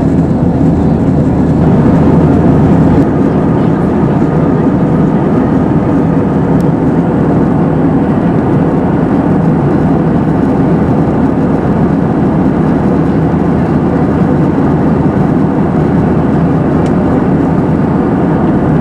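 Steady roar inside the cabin of an Airbus A320-232 in flight, from the airflow and its IAE V2500 engines. It is slightly louder for a moment near the start and otherwise holds even.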